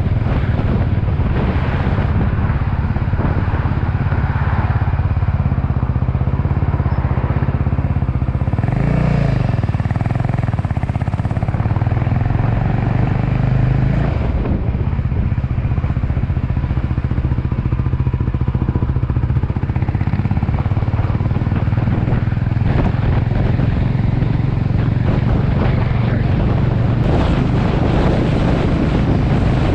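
Motorcycle engine running steadily under way, its note changing about nine seconds in and again about fourteen seconds in.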